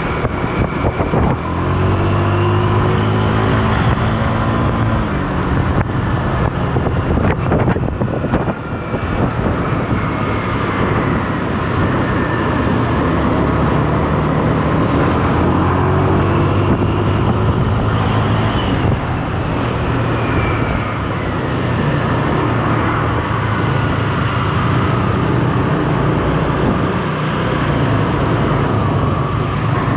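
Motor vehicle engine running while riding along, its pitch rising and falling as it speeds up and slows, over steady road and wind noise.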